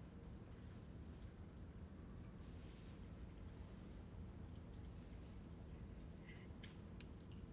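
Faint, steady chirring of crickets, a continuous high-pitched hiss-like trill, over a low background rumble.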